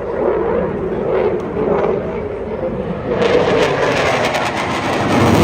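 Jet aircraft engine noise, swelling sharply about three seconds in to a loud, crackling rush, over background crowd voices.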